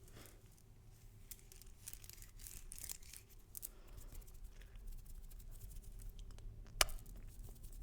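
Close-miked ASMR trigger sounds: a run of soft scratching and crackling ticks, with one sharp click about seven seconds in.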